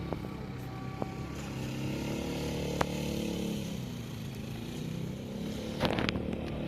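Diesel locomotive engine running, its pitch dipping and rising again through the middle, with a few sharp clicks and a short burst of clatter near the end.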